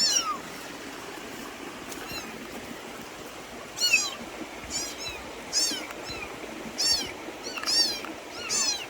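A kitten mewing over and over: about seven short, high-pitched mews, each falling in pitch, coming faster in the second half.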